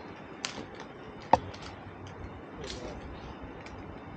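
Light rustling and scattered small ticks from a medicated adhesive patch being handled and pressed onto skin, with one sharp click about a second and a half in.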